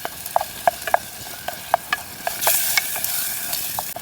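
A spoon stirring a pan of frying potato-and-onion curry, clicking and scraping against the pan about three times a second over a steady sizzle.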